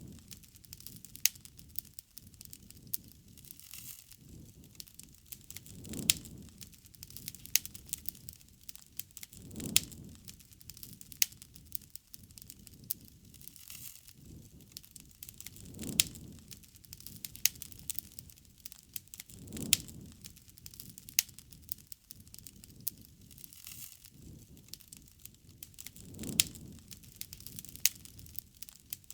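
Wood fire crackling, with frequent sharp pops and snaps, over a soft low whoosh that swells and fades every few seconds.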